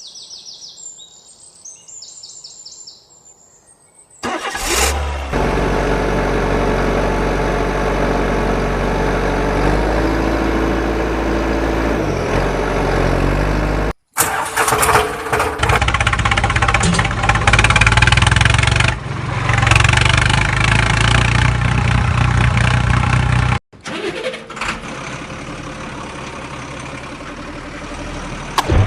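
A tractor engine sound starts about four seconds in and then runs steadily. It cuts out abruptly twice, briefly each time, and resumes.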